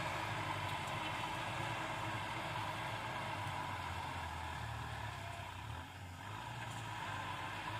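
Kubota tractor's diesel engine running steadily while plowing; its low note drops for a couple of seconds past the middle and the sound dips briefly before settling back to the same steady drone.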